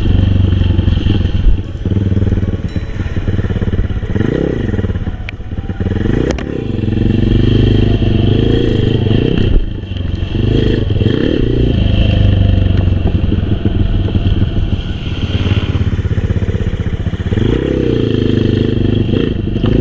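Honda XRM125 underbone's single-cylinder four-stroke engine running under load while ridden, its revs rising and falling again and again, with a short dip in the engine note about halfway through.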